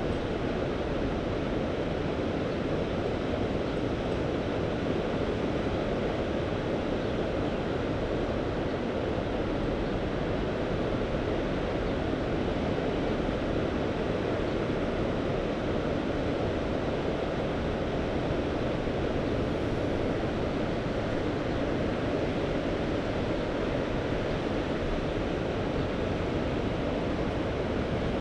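Mediterranean sea waves washing on the shore in a steady, even rush, with no single wave standing out.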